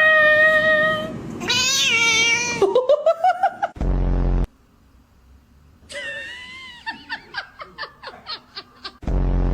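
A cat meowing and caterwauling in long, drawn-out, wavering calls, some gliding up in pitch, then a run of short quick calls about five a second. Twice, about four seconds in and near the end, a short loud low buzz cuts in.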